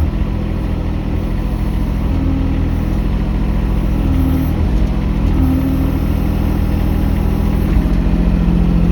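Mini excavator engine running steadily, its pitch shifting slightly now and then as the machine works.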